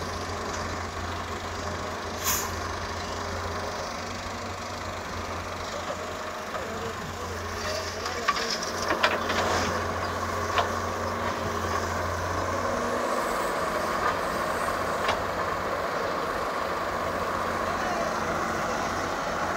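Doosan wheeled excavator's diesel engine running during loading work, with a few sharp knocks and clanks from the machine. A steady low hum from the engine drops away about two-thirds of the way through.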